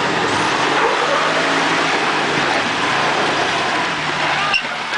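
Off-road truck's engine running hard under load as it climbs the rock ledges of a creek waterfall, with a sharp knock near the end.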